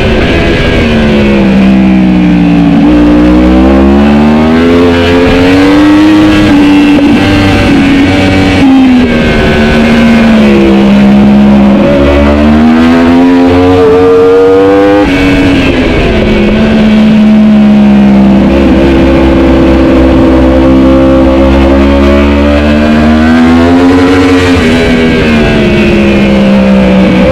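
Racing superbike engine at high revs, its pitch falling and climbing again and again as the bike brakes and accelerates through corners, with a sudden drop in pitch about halfway through.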